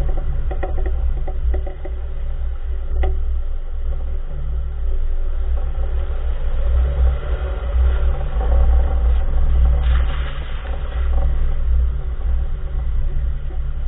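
2014 Nissan March on the move: a steady low road rumble, with a few sharp knocks near the start and a single one about three seconds in. These knocks are the clunking from the front wheel, of unknown cause.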